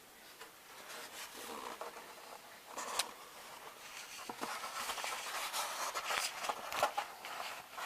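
Handling noise on a workbench: rustling and scraping with a string of small clicks and taps, busier in the second half.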